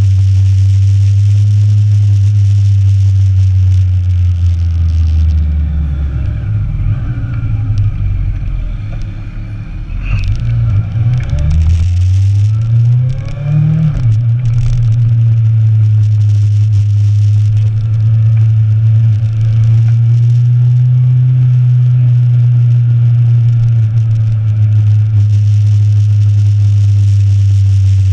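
Sport motorcycle's inline-four engine heard from on board, running steadily. Its note drops and breaks up a third of the way in as it slows, then rises sharply about halfway through as it accelerates, before settling back to a steady cruise.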